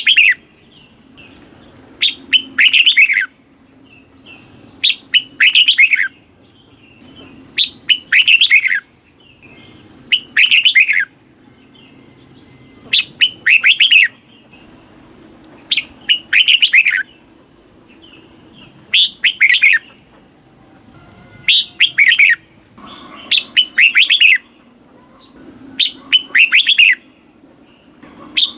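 Red-whiskered bulbul singing its short, quick phrase over and over, roughly every two and a half to three seconds: a couple of short lead notes and then a rush of rapid falling notes.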